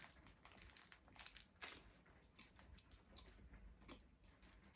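Faint crunching and chewing of a vanilla-and-chocolate snack being eaten, a scatter of small irregular crunches and clicks.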